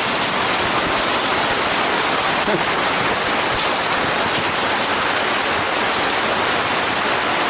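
Steady rain hiss, a dense even wash of raindrops.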